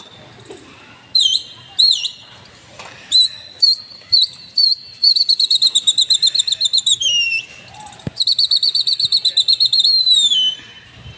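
Loud, high-pitched whistling: a few short chirps and glides, then two long, fast-warbling trills, each ending on a falling note.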